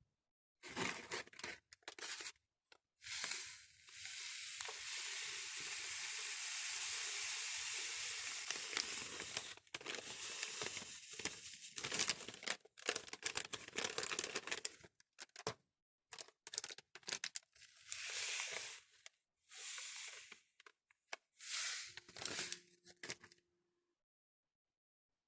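Rough abrasive scraping against the old axe, in a long steady stretch followed by many short quick strokes, broken up by sudden silent cuts.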